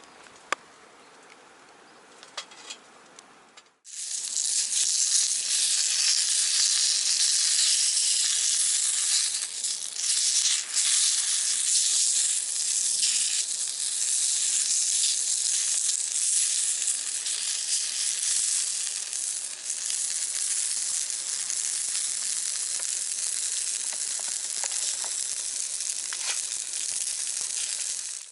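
A loud, steady hiss, like sizzling or steam, starting suddenly about four seconds in and cutting off at the end. Before it there are a few faint ticks and crackles.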